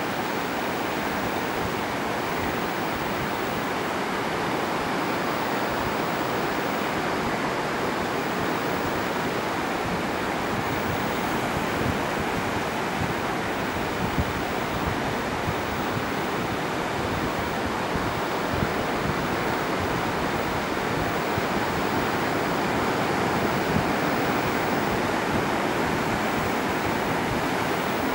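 Steady rushing wash of sea surf on the shore, even and unbroken.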